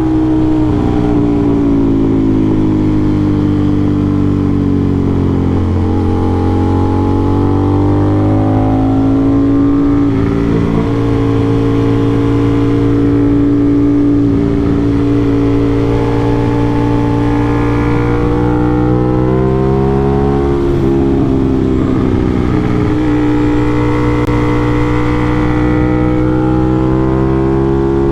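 Aprilia RS660's parallel-twin engine through an SC-Project CRT exhaust, ridden hard: revs climb and fall continuously, with several sharp drops in pitch followed by renewed climbs as the rider shifts gears and rolls the throttle on and off through the bends.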